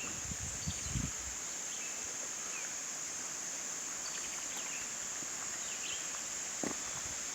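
A steady, high-pitched chorus of insects trilling without a break, with a few faint bird chirps over it. There are low thumps about a second in and again near the end.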